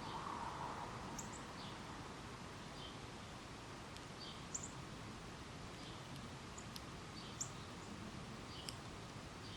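Small songbirds giving short, high chip and call notes, scattered about one every second, over a steady background hiss.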